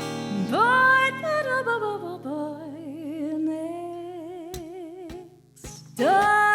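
A female singer holding out a wordless note over acoustic guitar: the voice slides down, then sustains a long note with a wide vibrato, and a new sung phrase begins near the end.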